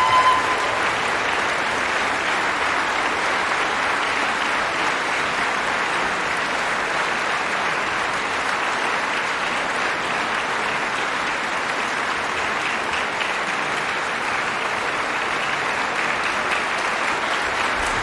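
A concert audience applauding steadily after an operatic aria. The soprano's held final note ends just as the applause begins.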